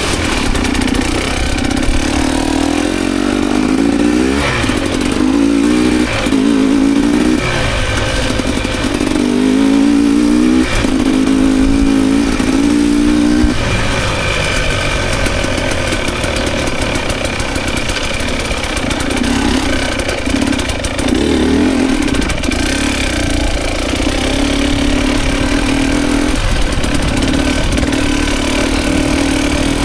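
Dirt bike engine being ridden on a trail, the throttle opened and closed over and over so the pitch keeps rising and falling, then settling into a steadier run about halfway through. Wind and track noise run underneath.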